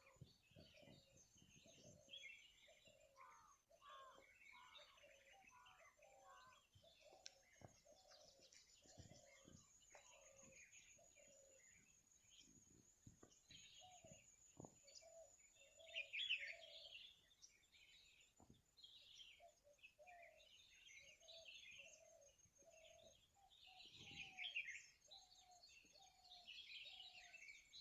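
Faint morning chorus of several wild birds: overlapping high chirps and tweets, with one bird repeating a lower note about twice a second through much of it.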